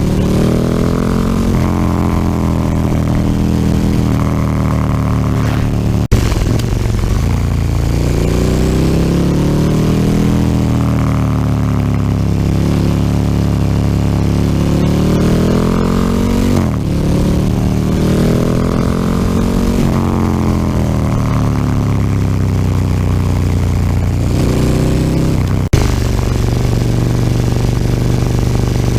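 KTM 1290 Super Duke R's V-twin engine through an Akrapovic slip-on exhaust, heard onboard while riding, its pitch climbing under acceleration and dropping off several times as the rider works the throttle and gears. Two sharp knocks stand out, one about six seconds in and one near the end.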